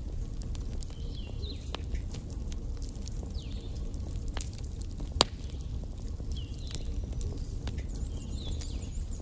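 Wood fire burning in a fireplace: a steady low rumble with irregular crackles and snaps, one sharp pop about five seconds in. Faint high chirping recurs every couple of seconds behind it.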